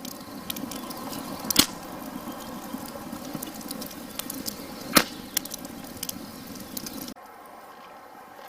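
Wood campfire crackling steadily with many small snaps and two loud pops, about a second and a half and five seconds in. The crackle cuts off abruptly about seven seconds in, leaving a quieter background.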